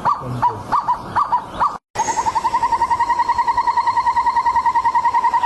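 Bird calls. First comes a string of short, separate curved notes, about three a second. After a brief cut it switches to a different call: a fast, steady trill of quick repeated notes, about ten a second.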